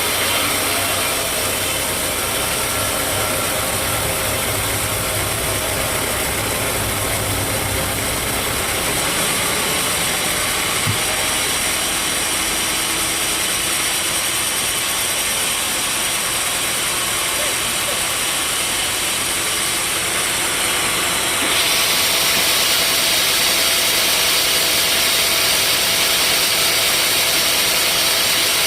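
Sawmill machinery running steadily. About 21 seconds in, a high hiss gets louder and stays up.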